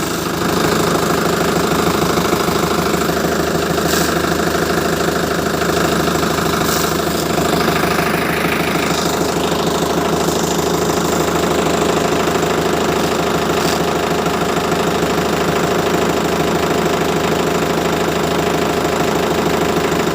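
ACE tractor's diesel engine running steadily at idle, with a few faint clicks.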